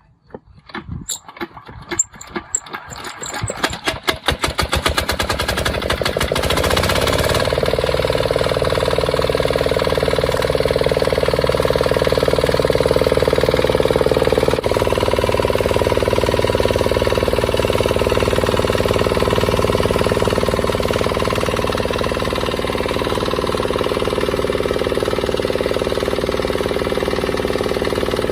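Restored diesel engine starting: its firing strokes come faster and faster over the first several seconds until it catches, then it runs steadily.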